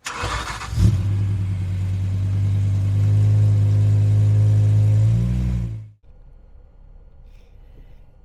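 Car engine starting and revving: a short noisy burst, then the engine catches about a second in and holds a steady rev that rises slightly, wavers near the end and cuts off after about six seconds.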